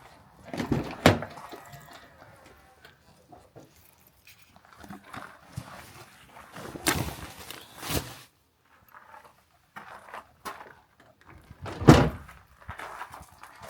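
A few knocks and thuds with quieter handling sounds between them: a sharp knock about a second in, a longer rattling stretch around the middle, and a heavier low thud near the end.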